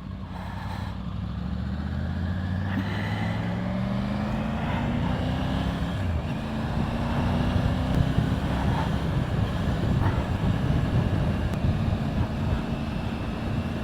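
Motorcycle engine pulling up through the revs, its note rising over the first five seconds or so and then holding steady at cruising speed, over a steady rush of wind and road noise.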